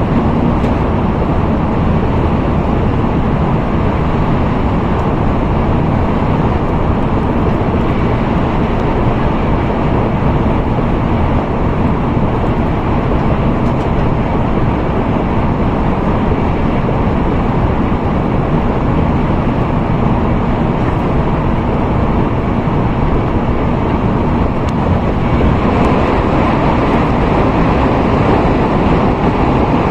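Tokaido Shinkansen N700A train running at speed, heard from inside the passenger car: a steady rumble and rushing noise that grows a little louder near the end.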